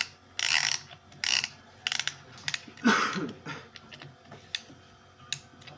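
Piston ring compressor being tightened around a 2C diesel piston's rings, its ratchet clicking in several short runs over the first three seconds, then a few single metal clicks.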